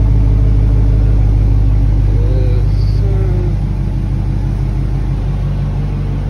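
A car engine idling with a deep, steady rumble, easing off slightly over the last couple of seconds.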